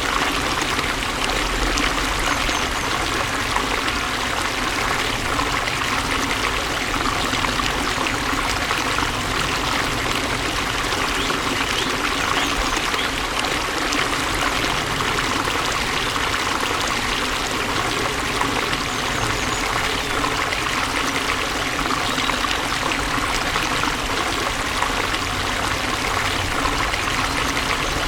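Steady flowing water, a stream running and splashing, with an even rushing hiss that does not change.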